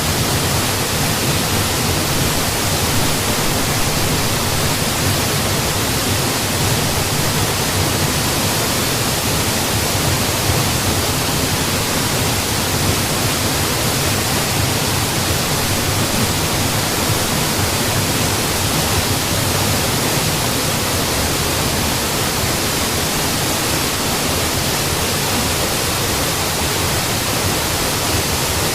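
A waterfall: water falling and splashing in a steady, unbroken rush that fills the range from low to high.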